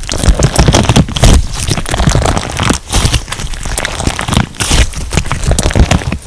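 Crunch slime being squeezed and pressed by hand, giving a dense, irregular run of crackles and pops.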